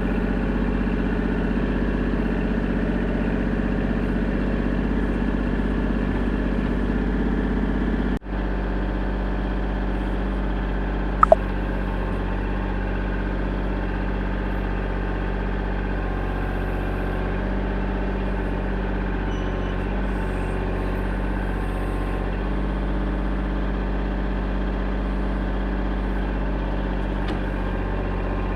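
An engine running steadily at an even speed, with a sharp click about 11 seconds in.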